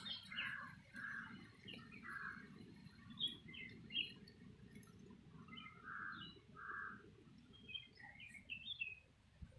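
Birds chirping and calling: scattered short high chirps, with a handful of fuller, lower notes, over a faint low background hum.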